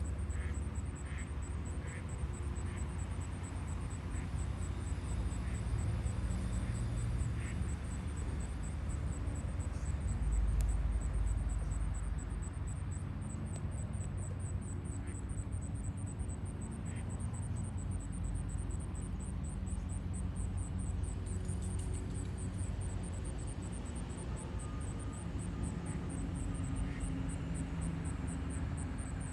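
Outdoor ambience: a steady low rumble with a thin, high pulsing whine over it. There are a few faint short chirps in the first several seconds.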